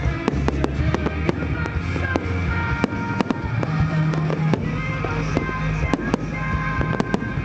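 Fireworks bursting in quick, irregular succession, several sharp bangs and pops a second, over music with a heavy bass.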